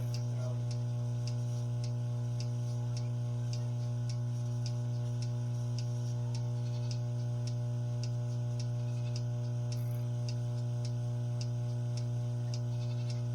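Goat being milked: a steady electrical hum runs throughout, with a quick, even ticking about two to three times a second over it.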